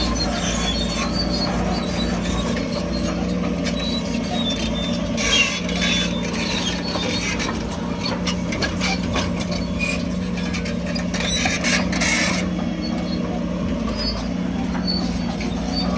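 Crawler bulldozer's diesel engine running steadily, with short squeaks and metallic scraping from its steel tracks and blade working dirt.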